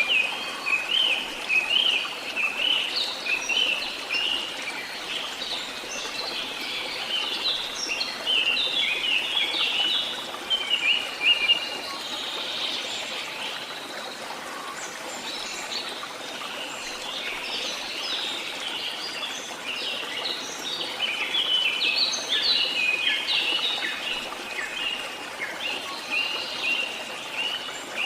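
Songbirds chirping and trilling in quick short notes, over a steady wash of running water from a stream. The birdsong is busiest in the first dozen seconds and again in the last several, and thins out in between.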